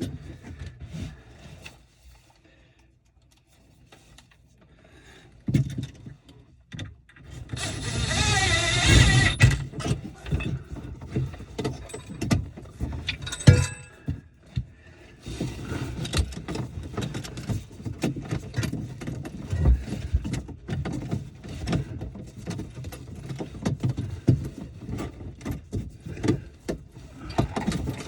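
Irregular knocks, clicks and clatter of tools and parts being handled during plumbing work, with a short noisy burst about eight seconds in.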